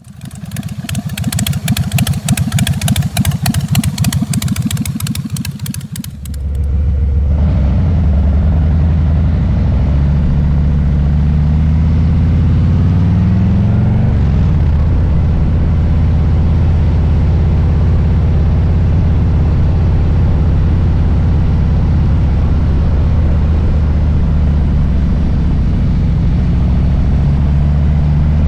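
Harley-Davidson Low Rider S Milwaukee-Eight V-twin engine running. It opens with a crisp, rapid pulsing that fades in over the first few seconds. From about six seconds a steady, deep rumble takes over, and its pitch climbs briefly about halfway through as the bike accelerates.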